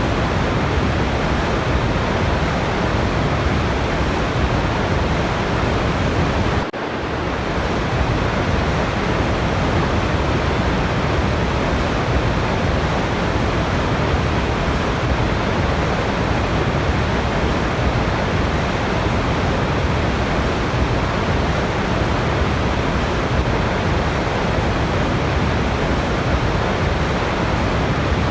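Waterfall: a steady, dense rush of falling water, even from deep lows to highs, with a momentary dip about seven seconds in.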